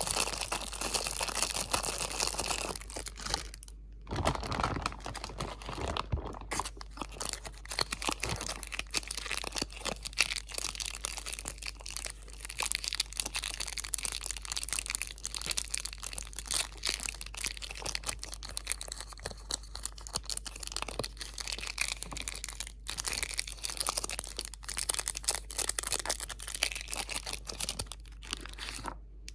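Close-up crinkling of plastic or paper packaging, a continuous stream of fine crackles with brief pauses about 4 and 6 seconds in and near the end.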